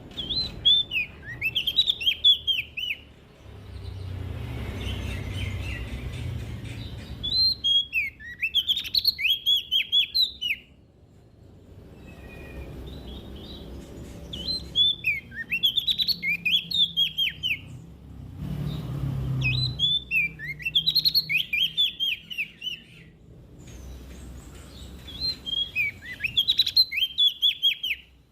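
Prenjak daun songbird singing five fast phrases of sharp, downward-sweeping chirps, each about three seconds long and coming roughly every six seconds, with a low rumble in the gaps between.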